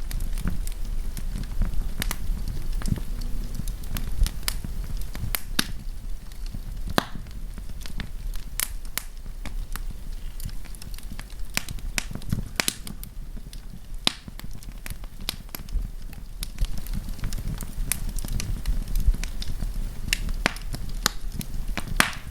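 Wood campfire burning: irregular sharp pops and snaps over a steady low rumble of flame.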